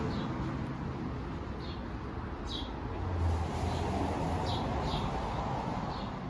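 A small bird giving short, high chirps that slide downward in pitch, about six at irregular spacing, over a steady low background rumble.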